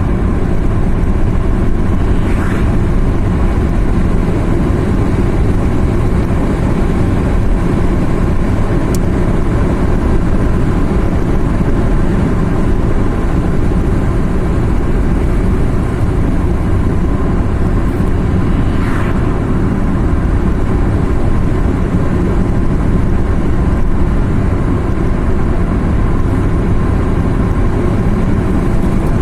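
Car driving on a mountain road: steady engine and tyre rumble at an even level.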